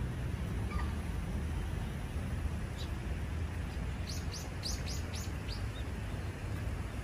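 A small songbird calling a quick run of about six high, short notes about four seconds in, with a few faint single chirps before it, over a steady low outdoor rumble.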